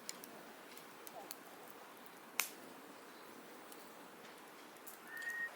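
Small campfire of wood crackling: a few scattered sharp pops over a faint hiss, the loudest about two and a half seconds in. A short high steady tone sounds near the end.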